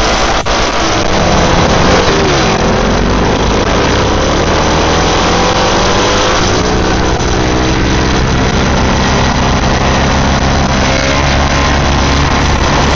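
Single-cylinder dual-sport motorcycle engines running hard, their pitch rising and falling with the throttle. About two seconds in, the pitch falls sharply.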